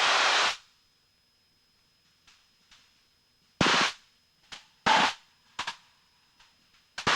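Cockpit noise of a Cessna 152 in flight, coming through the headset intercom only in short bursts as its voice-activated squelch opens and shuts. A steady hiss cuts off about half a second in, then near silence is broken by four or five brief bursts of hiss over the next few seconds.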